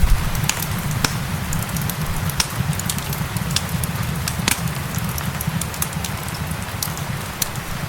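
Fireplace crackling with irregular sharp pops, over a steady hiss of rain and a low rumble.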